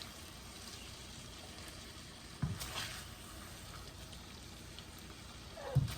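Udon noodles frying in an oiled wok, a faint steady sizzle, with a single clunk about two and a half seconds in.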